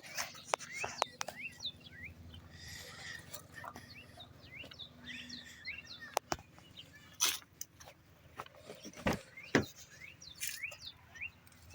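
Small birds chirping, with many short quick calls throughout, and several sharp knocks or clicks scattered among them.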